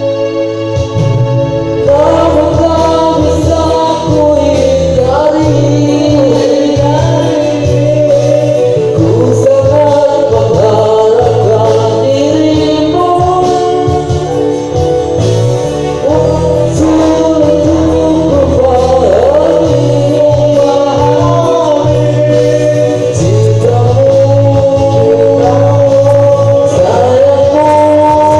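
A singer with a so-so, untrained voice singing a melody over instrumental accompaniment with a steady bass and sustained chords.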